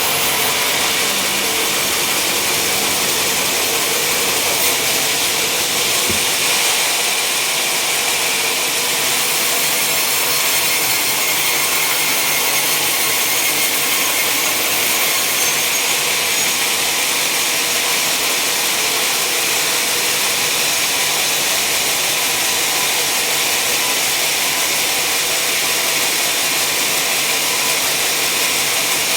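Sawmill saw cutting through wood, a steady hissing noise with no breaks.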